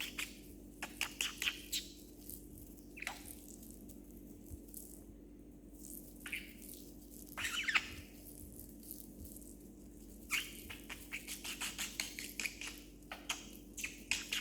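Pet budgerigar chirping and chattering in short bursts of quick, clicky notes, with pauses between them, over a low steady hum.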